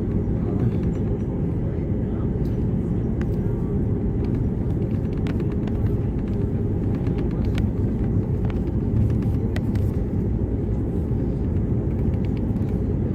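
Steady low rumble inside the cabin of an Airbus A330-300, its Rolls-Royce Trent 700 engines running at low power before takeoff, with a few faint clicks and rattles from the cabin.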